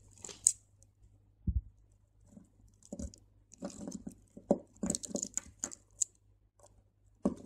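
Small crystal beads clicking and rustling against each other as beading thread is passed back through a bead and pulled tight. The sound comes as irregular small clicks and rustles, busiest in the middle of the passage.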